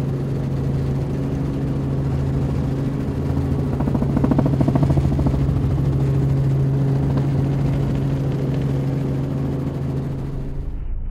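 Helicopter running steadily, its engine and rotor giving a constant hum, with a rhythmic beat that swells for a second or so about four seconds in. The sound cuts off abruptly near the end.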